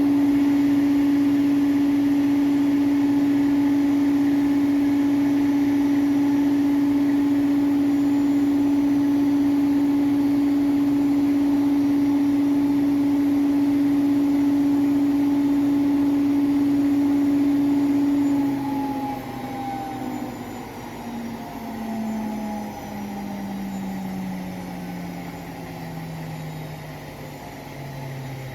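Hotpoint WMFUG942 washing machine at a fast spin, its motor giving a loud, steady whine. About two-thirds of the way through the drum starts to spin down, and the whine falls steadily in pitch and gets quieter.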